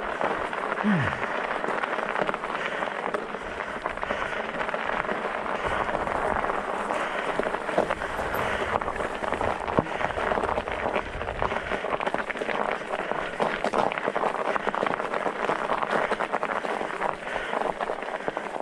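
Studded fat-bike tires rolling over ice and crusted snow: a steady crackling crunch full of small clicks, with a short falling squeak about a second in.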